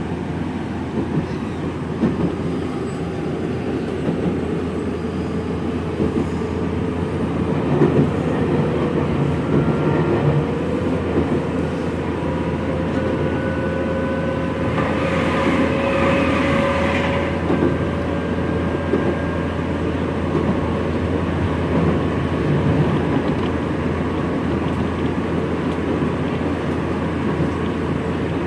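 Interior running sound of a Nankai 3000 series electric multiple unit with camshaft resistance control: a steady rumble of the moving car with wheel clicks over rail joints. A faint motor hum rises slowly in pitch through the middle, and a brief louder rushing noise comes about halfway through.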